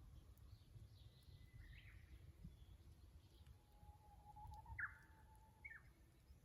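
Japanese bush warbler singing faintly: a long held whistle, then a quick two-part flourish near the end, the species' 'hoo-hokekyo' song. A low rumble runs underneath.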